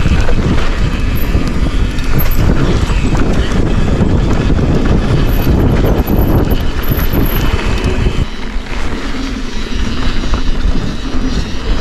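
Forbidden Dreadnought mountain bike riding down a rough dirt trail: steady tyre rumble with knocks and rattles from the bike, and heavy wind rumble on the microphone. The rumble eases briefly about eight seconds in.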